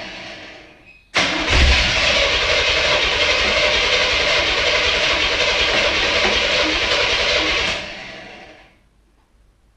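1968 Chevrolet Camaro SS V8 being started after nine and a half years of standing. A run fades out in the first second, then the engine starts abruptly about a second in, runs loud and steady for about six seconds, and fades away near the end.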